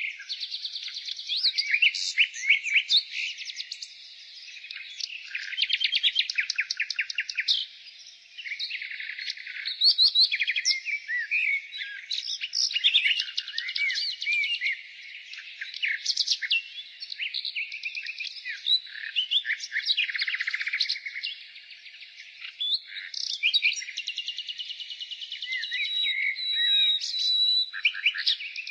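Nightingale singing: phrase after phrase of fast repeated notes, trills and short whistles, with brief pauses between phrases.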